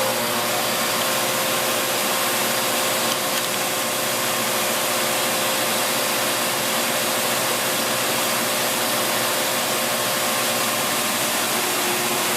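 Bissell Cleanview Plus Pet 76P4-E 1900 W bagless vacuum cleaner running steadily while vacuuming carpet: an even motor whine over a rush of air.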